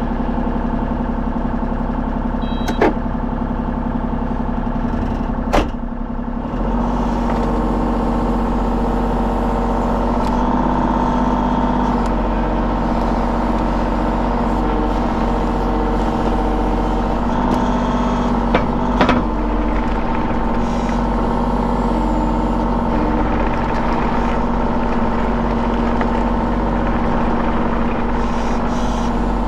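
Mini excavator's diesel engine running, throttled up about six and a half seconds in and then holding at a steady higher speed, with a few short sharp clicks and knocks along the way.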